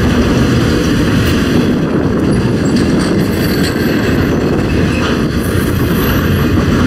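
A train of flatcars loaded with trailers rolling past close by: a steady rumble and clatter of steel wheels on the rails.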